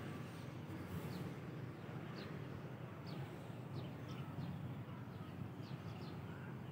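Outdoor ambience: small birds chirping, a scatter of short, high chirps that fall in pitch, over a steady low background rumble.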